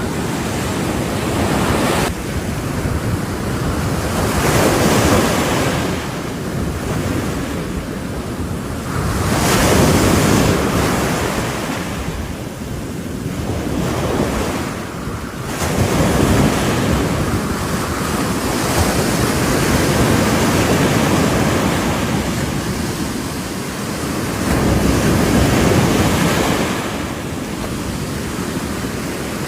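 Ocean waves breaking on the shore: a continuous wash of surf that swells and falls back every five or six seconds.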